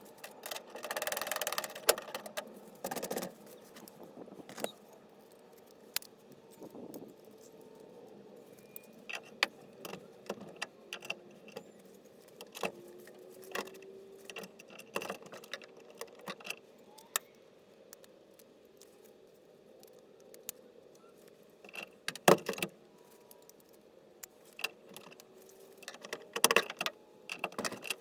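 Small metal tools and door hardware clinking and clicking in irregular handling noises, with a few sharper knocks.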